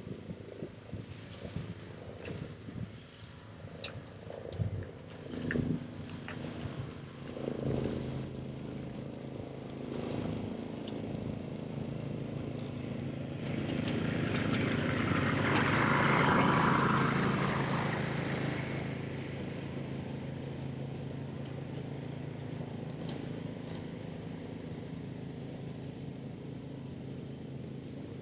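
Ariens Professional 32 two-stage snow blower running steadily, with a rushing noise that swells to its loudest about halfway through and then fades back. A few knocks come in the first several seconds.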